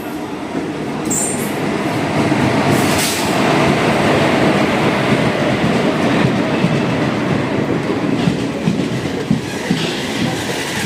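Train running on the rails: a loud, dense rumble of wheels on track that swells over the first couple of seconds and then holds steady, with brief high wheel squeaks about a second in and again around three seconds.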